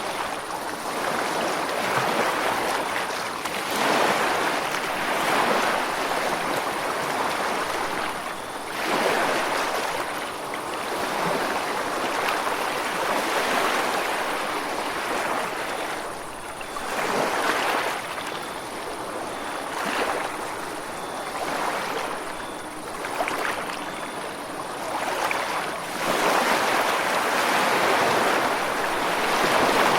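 Ocean waves breaking and washing up a shore, a steady rush of surf that swells and eases every few seconds.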